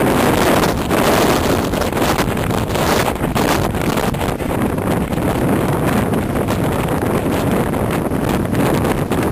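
Strong storm wind buffeting the microphone in a loud, steady rumbling roar, over a stormy sea's surf.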